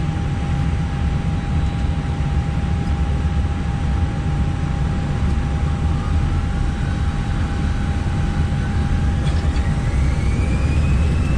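Inside an Airbus airliner's cockpit at the start of the takeoff roll: a steady low rumble under a constant electrical hum, with the engines' whine rising in pitch over the second half as thrust comes up toward takeoff power.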